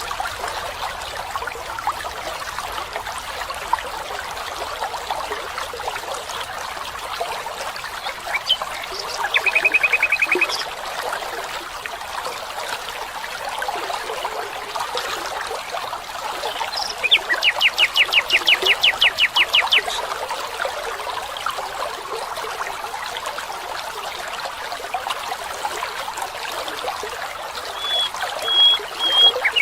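Running water of a stream, a steady trickling and babbling, with birds calling over it: a short trill, then a fast run of repeated notes, then a few short whistles near the end.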